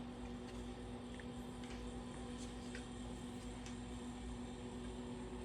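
Electric kettle heating water toward the boil: a steady electrical hum with a few faint ticks as the water starts to heat up just before it bubbles.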